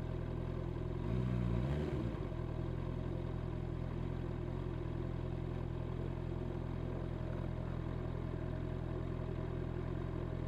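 Honda CB650R's inline-four engine on its stock exhaust idling steadily, with one quick throttle blip about a second in.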